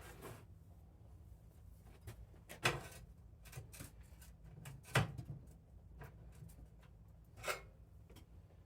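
Three sharp metallic knocks and clunks, a couple of seconds apart and the middle one loudest, from hands and tools working the snowblower's gear selector linkage, with a faint steady hum beneath.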